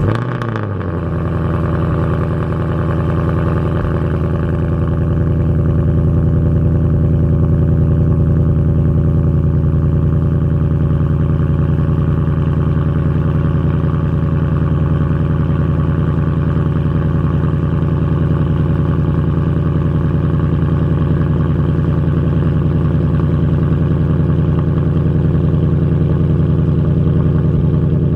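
2020 Mustang GT's 5.0 V8 through its active exhaust, catching with a short flare as it starts, then settling into a steady idle.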